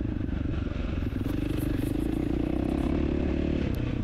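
2020 KTM 450 SX-F dirt bike's single-cylinder four-stroke engine running steadily as the bike is ridden over dirt and gravel. Its note lifts a little, then drops near the end as the throttle eases off.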